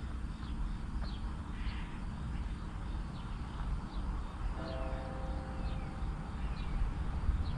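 Small birds chirping, short falling chirps repeating every half second or so, over a steady low rumble. A horn sounds for about a second a little past halfway and again near the end.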